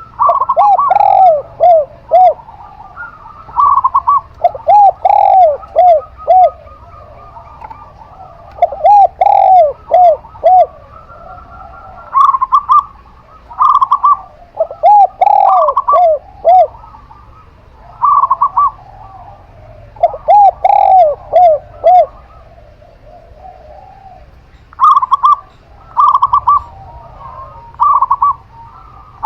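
Zebra dove and spotted dove cooing in turn. Short higher coos alternate with phrases of four or five quick arched notes falling in pitch, a phrase every couple of seconds.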